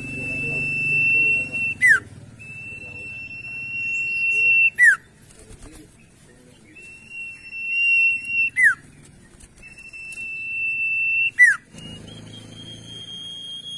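Caged songbird calling over and over. Each call is a long, steady, high whistle of about two seconds that ends in a quick downward slur, repeated about every three seconds; the last whistle is slightly higher.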